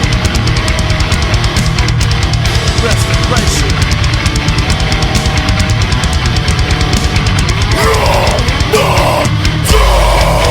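Hardcore band playing heavy, fast music: distorted electric guitars over rapid drumming. A shouted vocal comes in about eight seconds in.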